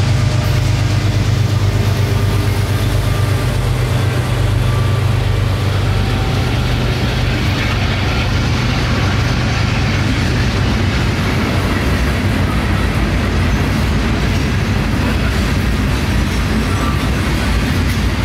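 A CSX freight train rolling past, its loaded rock hoppers, tank cars and covered hoppers making a steady, loud wheel-on-rail noise. The low drone of the diesel locomotives fades over the first several seconds as they move away.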